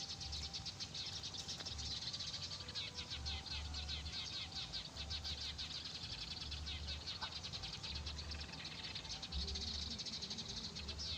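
Many small birds chirping densely and rapidly. A low rumble comes and goes underneath.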